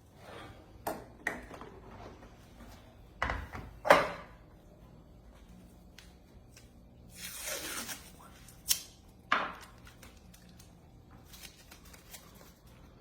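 A few scattered knocks and clinks of things being handled and set down, the loudest about four seconds in, with a brief rustling hiss a little past the middle.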